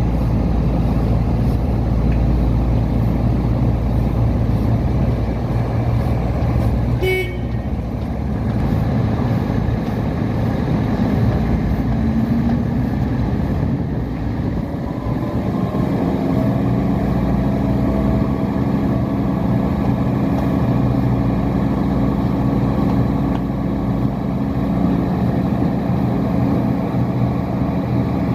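Diesel engine of a Putzmeister M56-5 truck-mounted concrete boom pump running steadily. There is a brief beep about a quarter of the way in. The engine note rises about halfway through and holds at the higher pitch.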